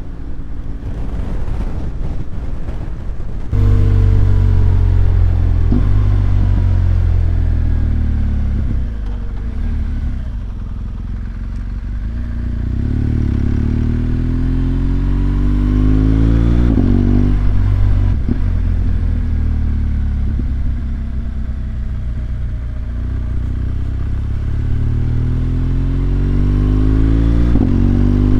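BMW R1200GS Adventure's flat-twin boxer engine under way, accelerating: its pitch rises and then drops back at gear changes, about 17 seconds in and again near the end.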